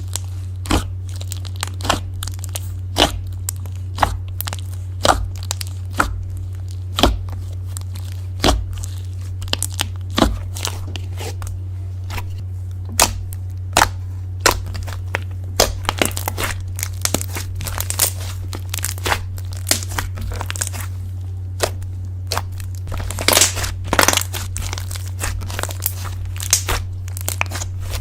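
Slime being squished and poked by hand, making irregular crisp clicks and crackling pops, with a denser run of pops a little before the end. A steady low hum runs underneath.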